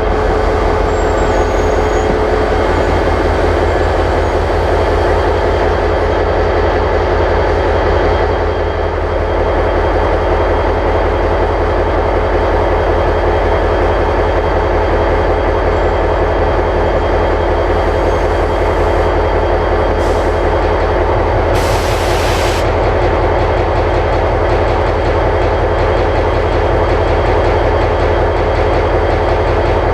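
Diesel locomotive running steadily, a heavy, low, even engine beat under the general train noise, with a brief hiss about two-thirds of the way through.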